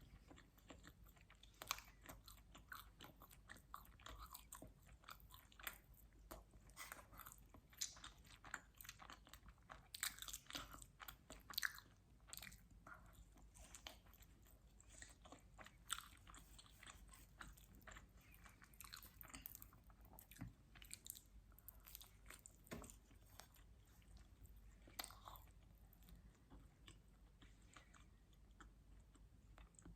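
Close-miked chewing and biting of quattro stagioni pizza: quiet, irregular crunchy clicks and mouth smacks, busiest in the first half and thinning out after the middle.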